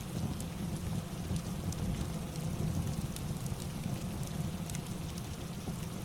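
Steady rain falling, with a low rumble underneath and scattered sharp crackles from a wood fire in a fireplace.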